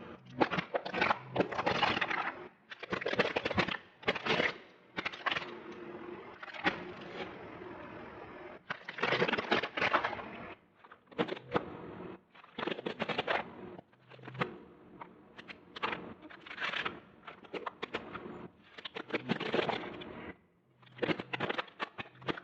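Repeated bursts of crunching and cracking as brittle objects are crushed under a car's tyre, about a dozen separate crunches with short pauses between them, over a faint steady hum.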